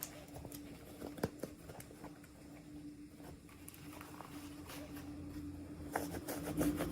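Light clicks and taps of small plastic items and packaging being handled, coming thicker near the end, over a steady low hum.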